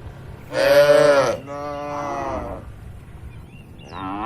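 Cattle mooing: a loud moo about half a second in, running straight into a longer, quieter and lower moo, then another moo begins near the end.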